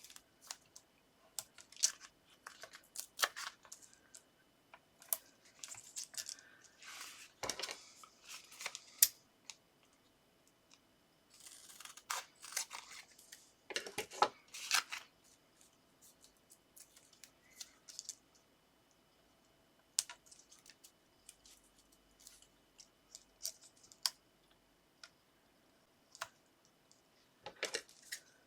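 Paper and card being handled at a craft desk: scattered light clicks, taps and short rustles, with a quieter spell about halfway through.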